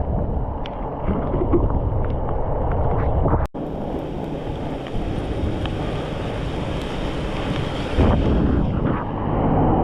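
Wind buffeting the microphone of a bicycle ridden in heavy rain, with a steady hiss of rain and wet road. The sound drops out for an instant about three and a half seconds in, after which a higher hiss joins.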